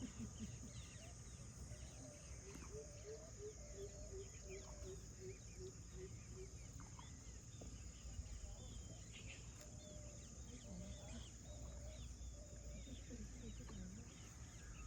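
Faint jungle ambience of birds and insects: scattered chirps and calls over a steady high insect drone. A few seconds in comes a run of about a dozen low, evenly spaced hoots, roughly three a second.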